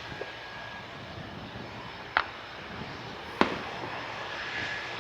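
Two sharp, gunshot-like bangs about a second apart, each with a short echo, over the steady noise of aircraft engines at the airfield. The bangs are taken by the listener for birds being shot, typical of bird-scaring shots fired at airports.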